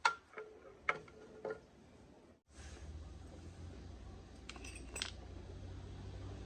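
Metal tools clinking against metal four times with a short ring, then after a sudden break a steady low rumble with a few light clicks.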